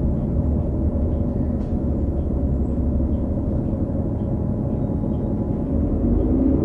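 Cummins L9 diesel and Allison B3400xFE transmission of a 2018 New Flyer XD40 transit bus running with a steady low rumble; a whine that falls away at the start and a whine that rises again near the end as the bus pulls away come from the transmission bearings, a very odd noise known on several buses of this series. A faint ticking about twice a second runs underneath.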